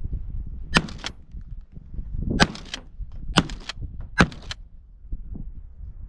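Four shotgun shots fired in quick succession over about three and a half seconds, each followed by a brief trailing echo.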